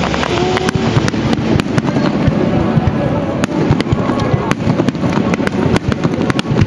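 Fireworks display: aerial shells bursting overhead, a steady run of sharp bangs and crackles in quick, irregular succession.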